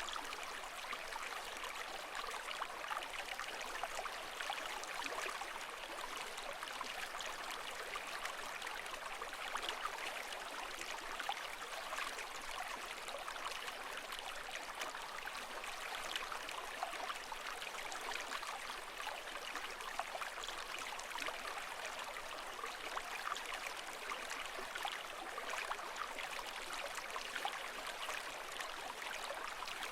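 Continuous rushing water with fine bubbling and crackle, steady throughout with no rise and fall.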